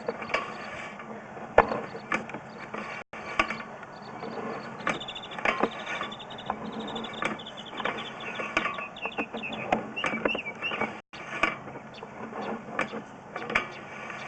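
Sewer inspection camera's push cable being pulled back out of the vent stack and wound onto its reel, with irregular clicking and rattling.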